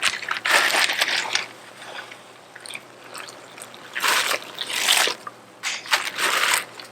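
A big pot of boiled crawfish being stirred in its seasoned water, a few separate stirring strokes that each bring a burst of moving water and shells.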